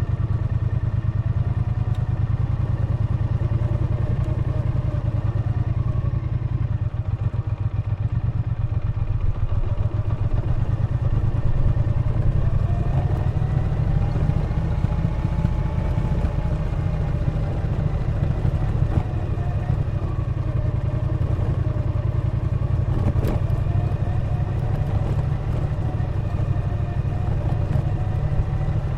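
Triumph Bonneville T120's 1200 cc parallel-twin engine running steadily under way, its pitch rising and falling gently with the throttle.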